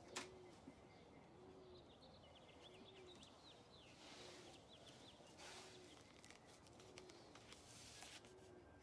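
Faint birds: a soft low cooing call repeating about once a second, with a brief run of quick high chirps about two seconds in. A faint click sounds right at the start.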